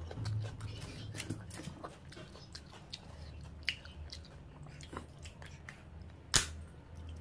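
Close-miked chewing and wet mouth sounds of a man eating crab curry and rice by hand, with scattered small clicks and one sharp, loud click about six seconds in.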